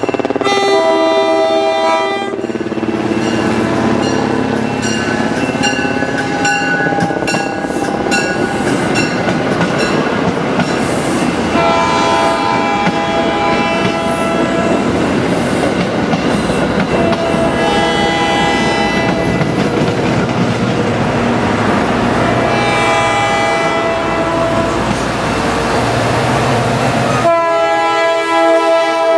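Locomotive horn sounding several long chord blasts, about five in all, over the steady noise of a passing train, its wheels clicking over the rail joints.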